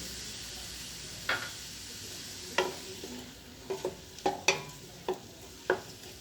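Onion sizzling in melted butter and olive oil in a cooking pot, stirred with a utensil that knocks against the pot about eight times, the knocks coming closer together in the second half.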